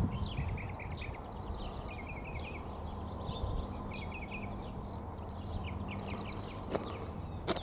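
Small birds chirping and chattering in many quick, overlapping short notes, over a low rumble of wind or handling noise, with two sharp clicks near the end.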